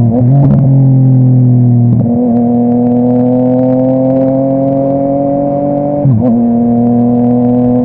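Yamaha MT-09 inline-three running through a full Akrapovic exhaust under way. The engine note climbs slowly, with short dips in pitch about two seconds in and again around six seconds in.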